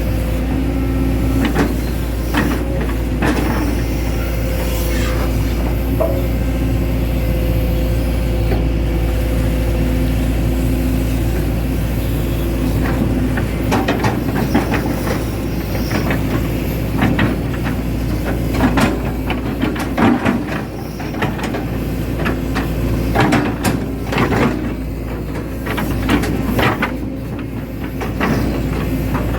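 Hitachi Zaxis 110 excavator's diesel engine running steadily under work, with repeated clanks and knocks from the machine, more frequent in the second half.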